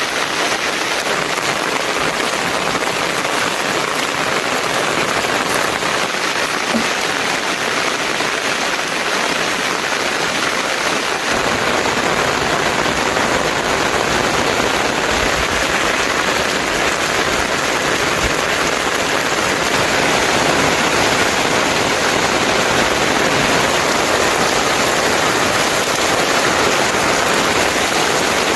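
Steady rain falling, a dense even hiss of drops that grows a little fuller and louder partway through.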